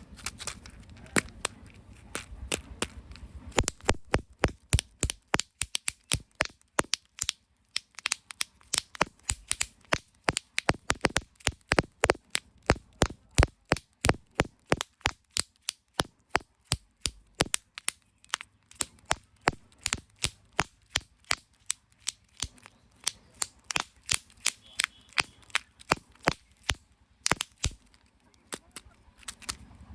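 Toy surprise eggs and candy being cracked open and crushed by hand: a rapid, uneven run of sharp clicks and snaps, several a second.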